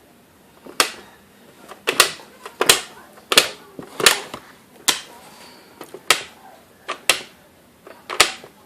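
A series of sharp clicks or taps, about a dozen at a fairly steady pace of one or two a second.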